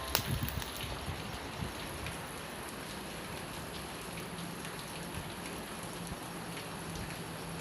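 Steady rain patter, with a wood fire crackling now and then through it; one sharp pop comes right at the start.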